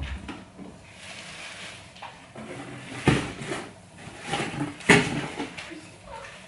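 Objects being handled, with rustling, small clatters and two sharp knocks, one about three seconds in and a louder one about five seconds in.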